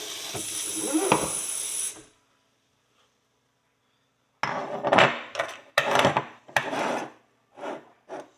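A water jet spraying steadily, cut off suddenly about two seconds in; after a short silence, a metal pick scraping and scratching at a crusted old horseshoe in a run of short rough strokes, working dirt out of the nail groove.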